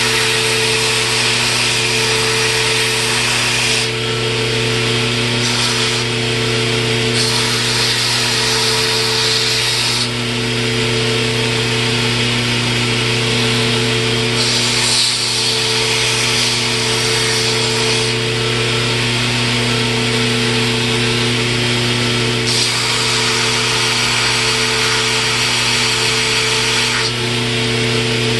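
Electric power tool running steadily while wood is pressed against it. A high grinding hiss swells and eases every few seconds over a constant motor hum, as the small red oak shim is cut down and shaped.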